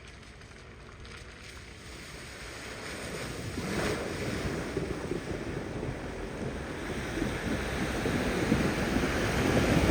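A vehicle driving through deep floodwater at a ford, with water surging and splashing around it, growing steadily louder as it comes closer.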